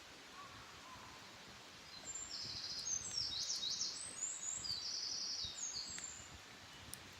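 A wild songbird singing a rapid series of high, trilled phrases, starting about two seconds in and lasting around four seconds, over faint steady outdoor background. A couple of faint clicks come near the end.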